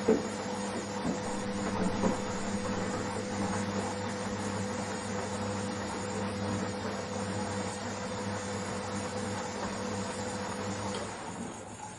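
Washing machine running: a steady motor hum with a few short knocks in the first couple of seconds. The hum stops about eleven seconds in.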